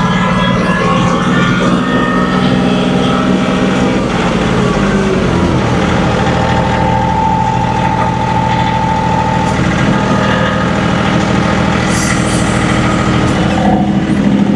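John Deere 2038R compact tractor's three-cylinder diesel engine running steadily while clearing snow, with a steady high whine for about three seconds in the middle.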